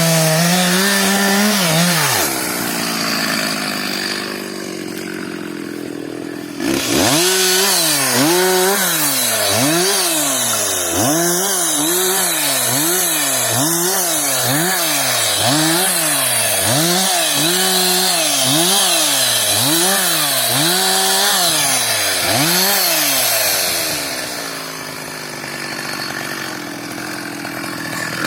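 Two-stroke chainsaw revved up and let back down over and over, about once a second, between stretches of steady idling near the start and the end. It starts with a brief high rev that drops to idle, and the sound changes abruptly about six seconds in.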